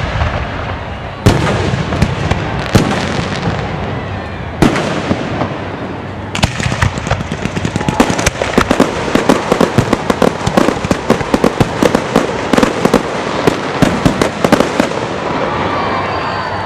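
Aerial fireworks display: a few heavy booms about a second and a half apart, then from about six seconds in a dense, rapid run of crackling bursts that thins out near the end.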